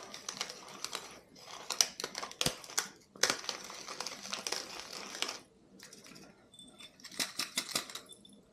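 Hand-cranked peppermill grinding peppercorns: a dense crackling crunch that stops about five seconds in, then a few faint ticks near the end.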